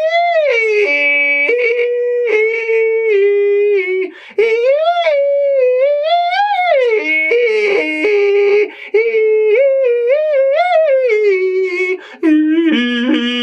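A man's voice sustaining an "ee" vowel as a vocal exercise, sliding up and down in pitch and flipping abruptly between registers, yodel-like. He takes short breaths about four, nine and twelve seconds in. The exercise is meant to smooth out the breaks in the voice.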